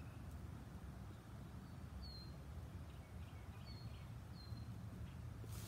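Faint outdoor ambience: a steady low rumble with three short, faint, falling bird chirps spread through the middle.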